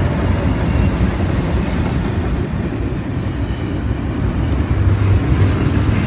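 BNSF freight train passing close by: the last of its diesel locomotives goes past, then double-stack container cars roll by with a steady, loud rumble of wheels on rail.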